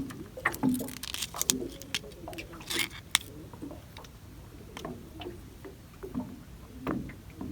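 Small splashes, drips and squishy rustles of a gill net being pulled by hand out of shallow water, with scattered light clicks and knocks.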